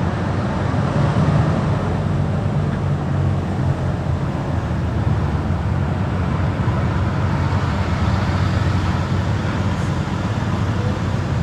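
A car driving along the road, with a steady low rumble of engine and tyre noise.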